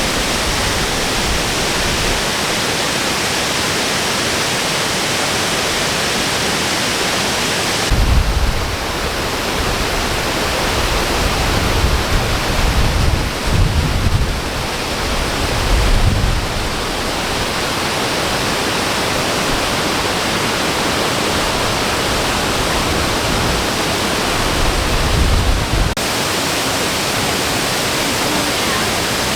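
Steady rushing roar of a large waterfall. In the middle stretch, irregular low rumbling gusts of wind buffet the microphone over the water noise, and the sound changes abruptly at both ends of that stretch.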